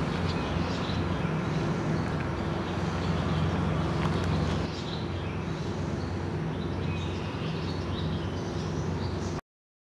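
An engine or motor running steadily with a constant low hum, under outdoor noise with a few faint high chirps; it cuts off abruptly near the end.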